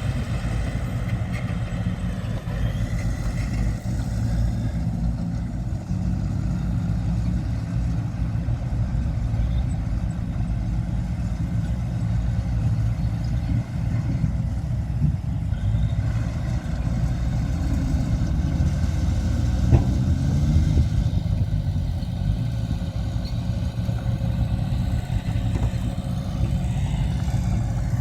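Diesel engine of heavy earthmoving machinery running steadily at a low, even pitch, with a brief rise in pitch and a knock around twenty seconds in.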